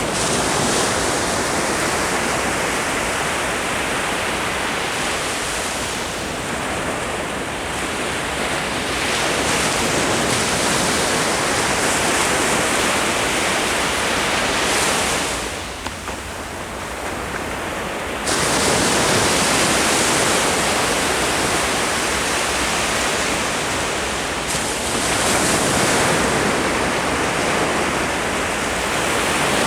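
Ocean surf: waves breaking and washing up on the shore in a continuous rushing noise that swells and eases. There is a lull about sixteen seconds in, and the noise comes back abruptly about two seconds later.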